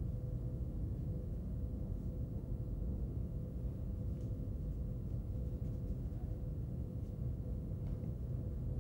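Steady low background hum with a faint steady tone, and a couple of faint soft ticks; no speech.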